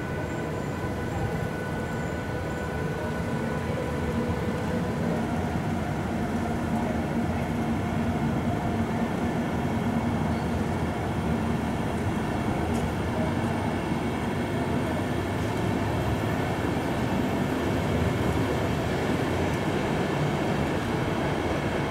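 Passenger train running across an elevated railway viaduct: a steady rumble of wheels on rails that swells slightly over the first few seconds, with a faint steady hum running through it.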